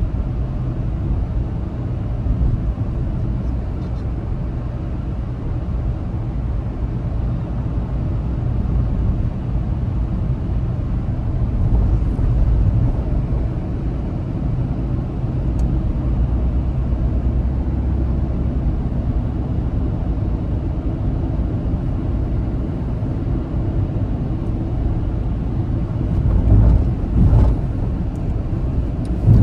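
Car driving at highway speed: a steady low rumble of engine and road noise, with a couple of brief louder thumps near the end.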